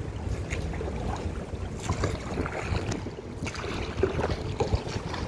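Wind rumbling on the microphone aboard a rowboat, with a few light knocks.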